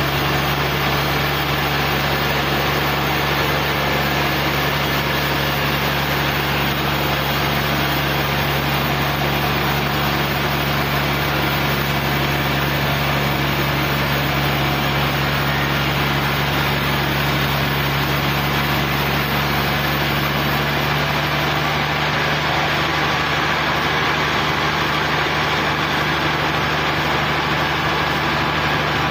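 Sawmill machinery running steadily, an engine-driven hum with a constant low drone that holds the same pitch throughout.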